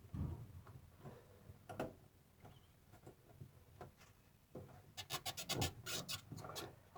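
Faint handling noises of hands working a rag-covered fuel hose quick-connect clip: scattered taps and rustling, then a quick run of clicks and rubbing from about five seconds in.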